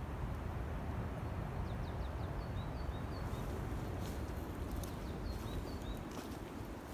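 A small songbird chirping in two quick runs of short, high notes, over a steady low rumble, with a couple of sharp clicks.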